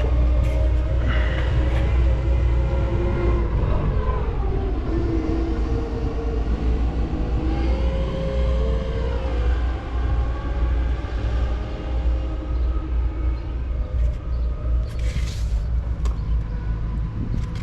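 Machinery running with a steady low rumble and a whining tone that dips and rises in pitch a few times.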